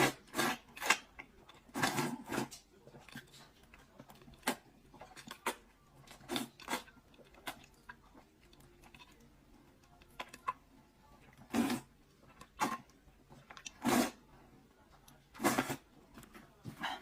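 Close-miked eating of Buldak spicy chicken noodles: noodles slurped in several short bursts, with chewing and small wet mouth sounds between.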